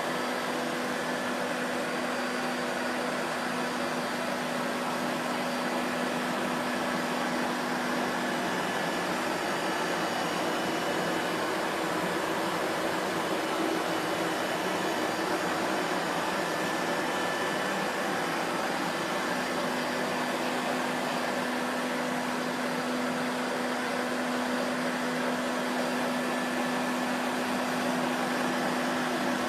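Vacuum cleaner running steadily: an even rush of air with a constant low motor hum that holds one pitch throughout.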